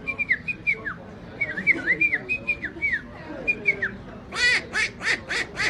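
A man imitating bird calls with his voice: a run of short whistled chirps that bend downward, then, about four seconds in, loud harsh squawking calls repeated quickly, about three a second.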